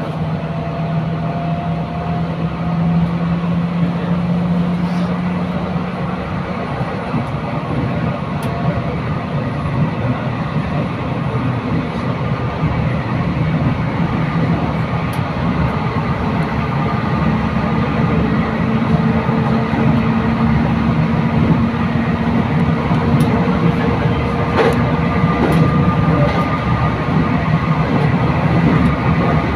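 Commuter train running along the line, heard from inside the carriage: a steady rumble of wheels on rail with occasional sharp clicks and faint tones from the running gear that shift slowly in pitch.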